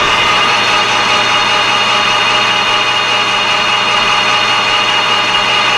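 Metal lathe running steadily, a constant whine over a steady hiss.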